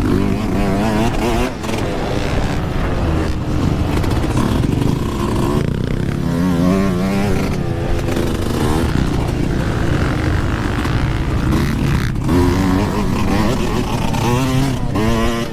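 Yamaha YZ125 single-cylinder two-stroke dirt bike engine revving up and down repeatedly, its pitch rising and falling over and over, heard over a rushing noise.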